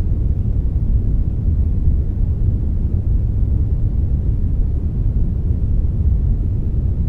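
Steady synthetic brown noise blended with some white noise: an even, deep rushing hiss, mostly low in pitch, with no changes or separate sounds.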